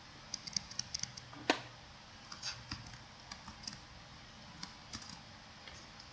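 Keys tapped on a computer keyboard: irregular clicks, a quick run in the first second or so, one louder tap about a second and a half in, then scattered taps.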